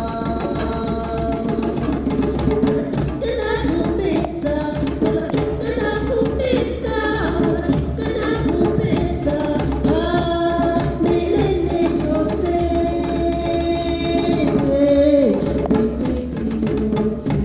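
Community choir singing an African choral song with drum accompaniment; sustained voices in several parts over a steady drum beat.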